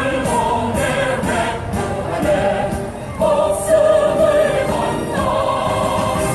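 Choir singing long held notes, as choral music; it stops right at the end.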